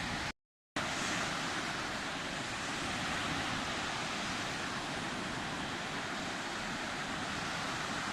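Sea surf washing steadily on the shore, an even rush of breaking water, with the sound cutting out completely for a split second near the start.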